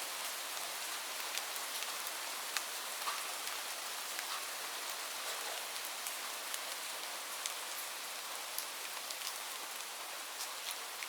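Light rain falling steadily, a soft even hiss with many scattered individual drop ticks.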